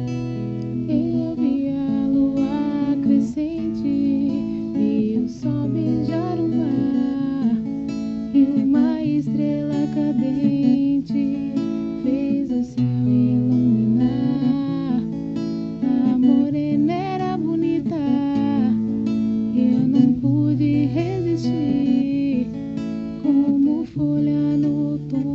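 Acoustic violão playing a slow capoeira ladainha melody, with low bass notes that change every couple of seconds under the gliding tune.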